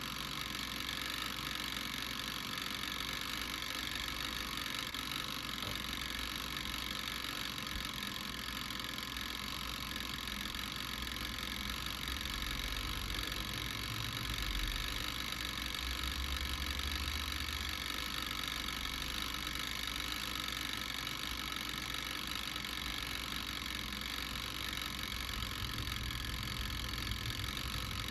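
Garlic grilling over heat with a steady hiss and a low hum underneath.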